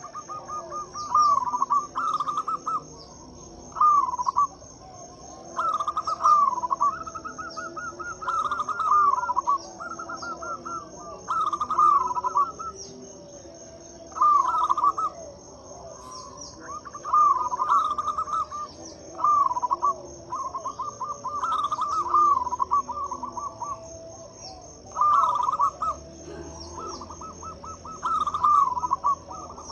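Local perkutut (zebra dove) calling: over a dozen phrases of quick, rolling staccato coos, each about a second long, repeated every second or two. A steady high-pitched tone runs behind them.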